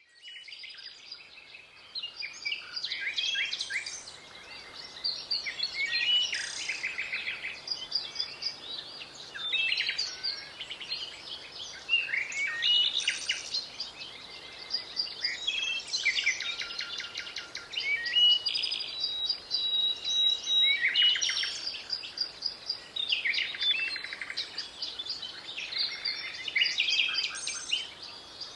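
Small songbirds chirping and trilling in quick, overlapping bursts of many short high notes, swelling and easing every few seconds.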